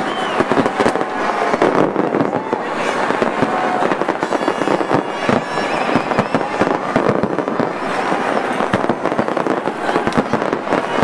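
Aerial fireworks going off in a rapid, continuous barrage of bangs and crackles.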